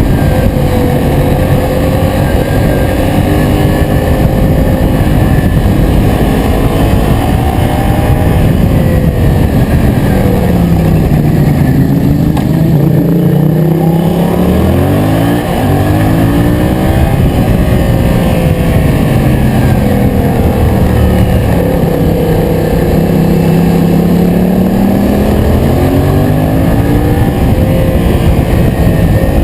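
Yamaha MT-07's 689 cc parallel-twin engine running on the move. Its pitch falls as it slows about ten seconds in, then climbs quickly through the gears, with a brief drop in loudness near fifteen seconds at a shift. It then holds a fairly steady pitch, and dips and rises again near the end.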